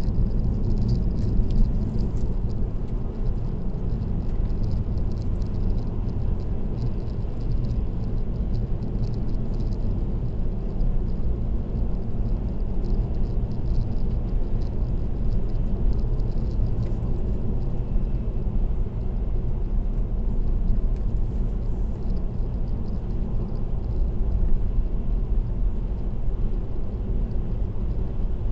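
Steady low rumble of road and tyre noise from a car cruising at expressway speed. Faint high ticks come through during roughly the first ten seconds.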